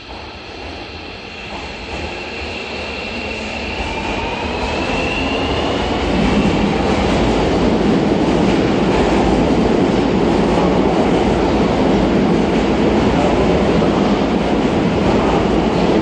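Seibu 40000 series electric train pulling out of an underground station: a whine rises in pitch over the first few seconds as it accelerates, while the running noise of the cars grows louder and then holds steady, echoing around the platform.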